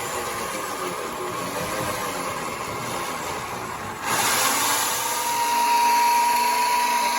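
A steady mechanical running noise, then about four seconds in a louder machine starts up and settles into a steady high whine, like a power tool running at constant speed.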